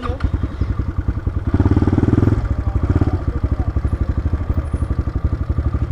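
Motorcycle engine running at low speed over a rough road, its rapid firing pulses steady, and briefly louder about a second and a half in as the throttle opens.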